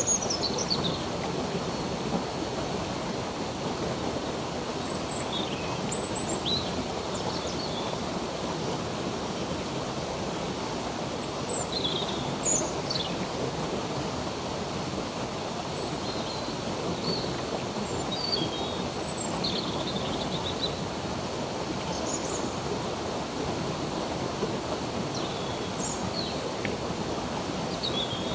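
Stream water flowing steadily, with birds chirping: short, high calls scattered every second or two over the water.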